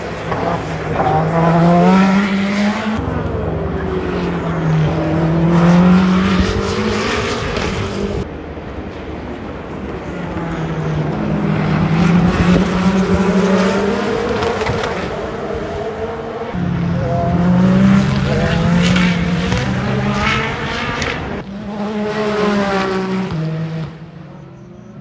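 Le Mans Hypercar prototype racing engines, several cars going by one after another, each engine note rising and falling in pitch as the cars brake and accelerate through a slow corner. The level drops briefly near the end.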